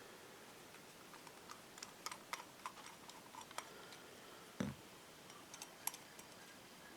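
Light, scattered clicks and taps of small carburetor parts and tools being handled, with one duller knock about two-thirds of the way through.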